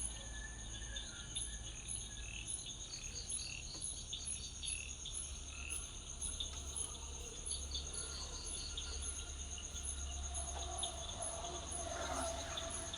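Crickets trilling steadily at night: a high, continuous pulsing trill with a slower, regular higher chirp above it, and a few scattered shorter chirps in the first half.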